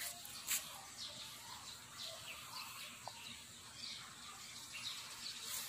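Faint, scattered bird chirps over quiet outdoor background noise, with a short click about half a second in and another near the end.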